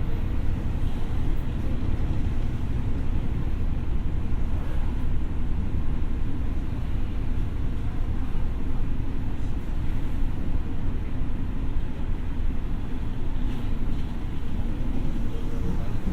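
Running noise of a Tokyo Metro 6000 series electric train, a steady low rumble of wheels on rail with a faint even hum, holding a constant level.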